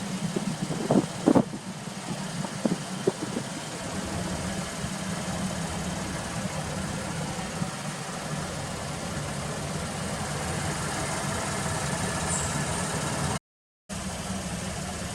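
Supercharged 2.5-litre V6 of a Toyota Mark X 250G idling steadily, with a few sharp knocks in the first three seconds and a brief break in the sound near the end.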